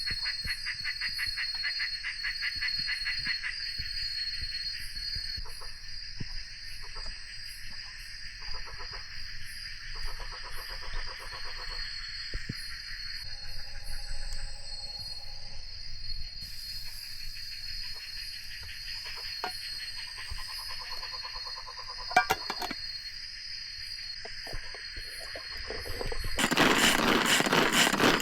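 Night-time insect chorus: steady high pulsing trills with rapid chirping beneath, and scattered small knocks. Near the end a louder, rushing noise with a fast rhythmic pulse takes over.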